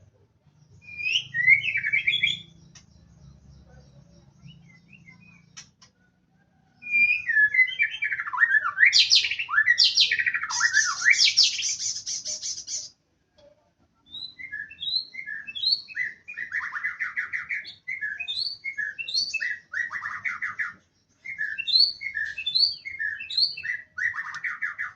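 A male murai songbird singing loud, varied phrases of sweeping whistles and a harsh buzzy rattle. After a short pause it runs into quick repeated notes broken by falling trills.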